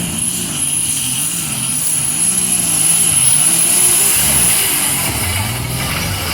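A pulling vehicle's engine running, its pitch wavering up and down, with a steady high whine over it that fades out a little past the middle.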